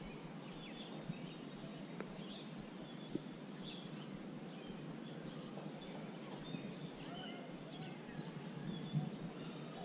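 Faint outdoor ambience: small birds chirping here and there over a steady low background noise, with a couple of soft clicks about two and three seconds in.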